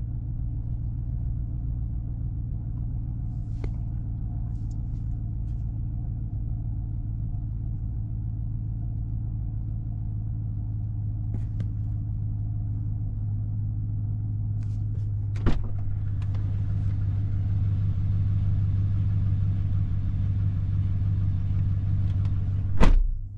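Chevrolet Silverado's engine idling steadily and smoothly while still cold after a cold start, a low even rumble. About two-thirds of the way through there is a click and a faint steady hiss comes in, and a sharp thump sounds near the end.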